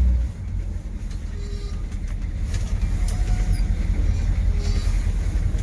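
M1028 CUCV's 6.2-litre diesel V8 running as the truck drives on a snowy road. The low rumble drops sharply about a quarter second in, then slowly builds again.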